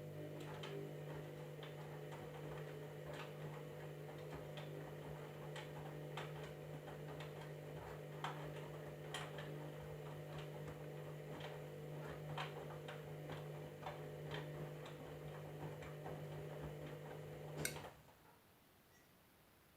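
Candy washing machine running: a steady low hum with scattered light clicks and ticks, which cuts off suddenly with a final click near the end.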